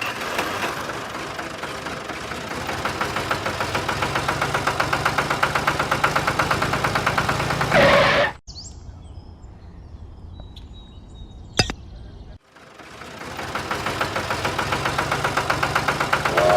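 A small engine running with a fast, regular pulsing beat that grows louder over the first eight seconds. It breaks off abruptly for a quieter stretch with a single click, then starts again and builds.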